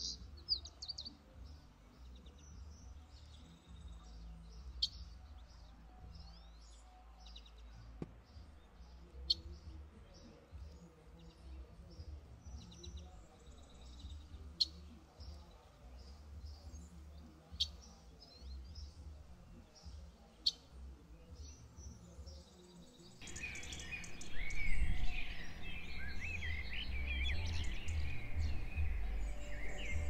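Birds calling over a low rumble: single sharp chirps every few seconds, then about two-thirds of the way in a sudden louder, busy chorus of many birds chattering.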